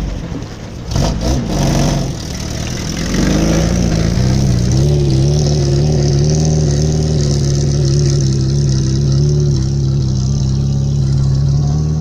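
An engine revs unevenly for the first few seconds, then runs at a steady high speed, cutting off abruptly at the end.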